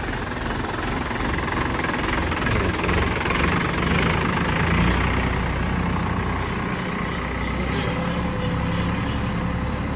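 A Sonalika DI 745 tractor's diesel engine idling steadily, running a little louder about three to five seconds in.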